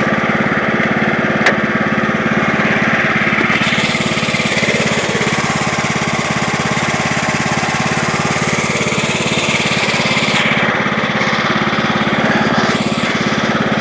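Craftsman YT3000 riding lawn tractor's engine running steadily as the tractor is driven, with a sharp click about a second and a half in and a brighter rushing noise from about three and a half to ten seconds in.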